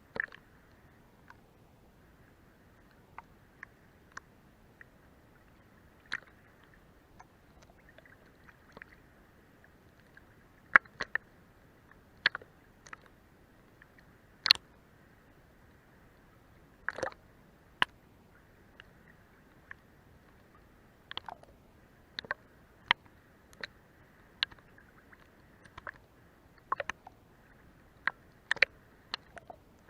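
Sea water lapping against a boat's hull: irregular sharp slaps and drips of varying loudness over a faint steady wash.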